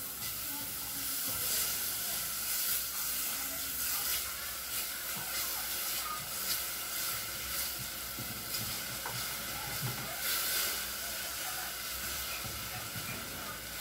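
Grated onion, brown sugar and Worcestershire sauce sizzling in hot olive oil in a metal saucepan. A silicone spatula stirs the mixture steadily against the pan bottom to keep it from sticking and burning.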